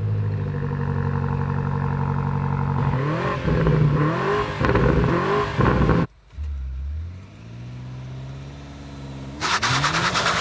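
BMW M5 Touring G99's twin-turbo V8 running steadily, then revving up and down in several rising sweeps. The sound cuts off suddenly about six seconds in, resumes lower and steadier, and revs up again near the end.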